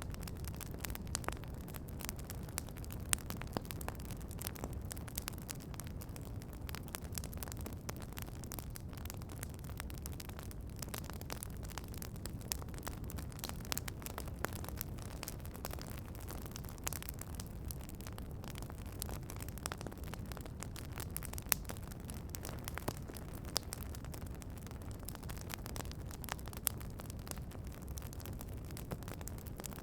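Campfire crackling, with frequent small snaps and a few sharper pops over a steady low rumble.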